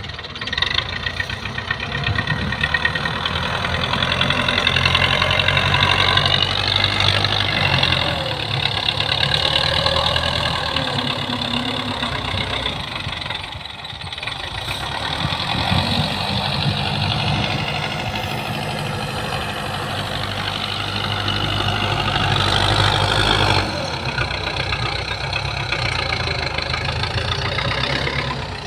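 Belarus tractor's diesel engine running and working, its speed and loudness rising and falling: it picks up about a second in, eases off briefly near the middle, and drops back a step near the end.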